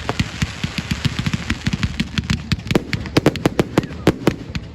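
Fireworks going off in a rapid string of sharp bangs, many a second, in a dense crackling barrage.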